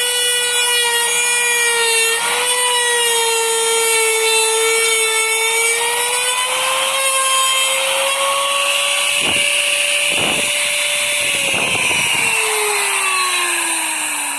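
Electric trim router with a straight bit running at high speed and cutting into wood, a high steady whine over a cutting hiss. A few short knocks come near the end, then the motor is switched off and its whine falls away as it spins down.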